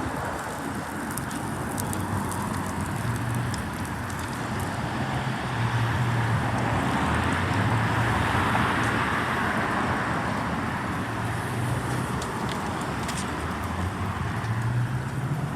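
Road traffic noise with a vehicle going past, swelling to its loudest about midway and then fading.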